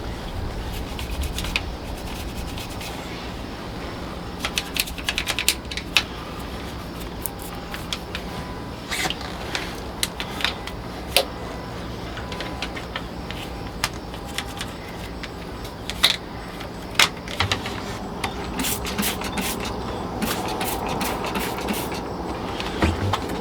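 Irregular clicks, taps and rubbing from hands working a rag over a diesel engine's surfaces, over a steady low hum.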